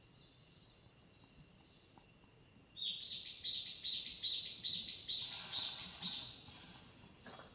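A songbird singing a quick run of about ten repeated high notes, each sweeping upward, starting about three seconds in and fading out after a few seconds.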